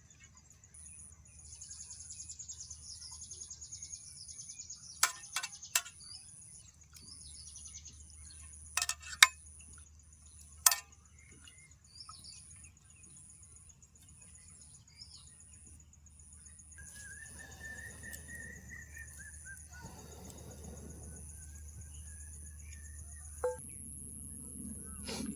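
Forest ambience: an insect chirping in short high pulses a little over once a second, with a few sharp knocks around the middle, and a bird calling with a wavering whistle about two-thirds of the way in.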